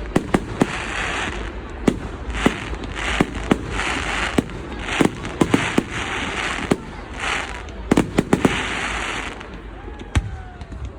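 Fireworks display: many sharp bangs from bursting shells at irregular intervals, with stretches of hissing crackle between them. The bursts thin out near the end.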